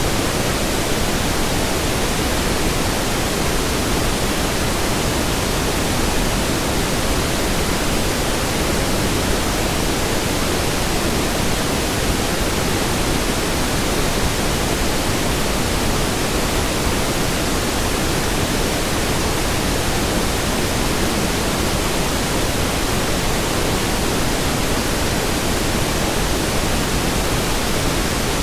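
Pink noise: a steady, even hiss spread across all pitches, heavier in the low end, with no change.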